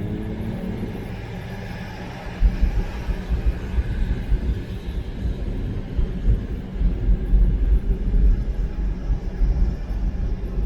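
A car driving on a wet road: tyre and road noise with an uneven low rumble that grows louder about two seconds in. In the first second a low engine hum slides slightly down in pitch.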